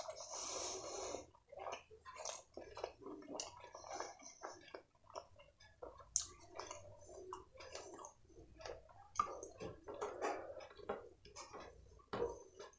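Close-miked chewing of a mouthful of fried rice and chilli paneer: a quick, irregular run of small mouth clicks and smacks.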